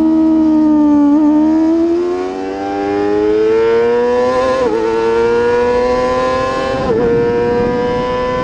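Superbike racing motorcycle engine accelerating hard through the gears: its pitch climbs steadily, broken by quick upshifts about halfway through and again near seven seconds in, then holds high.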